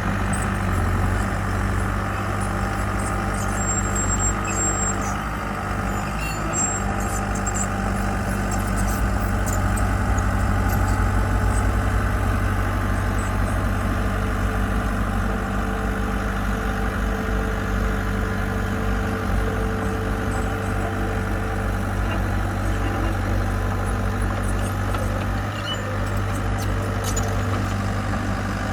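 Heavy construction machine's diesel engine running steadily with a continuous low drone.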